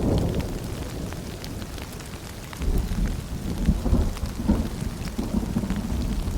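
Steady rain pattering, with a low rumble of thunder that fades and then swells again about two and a half seconds in.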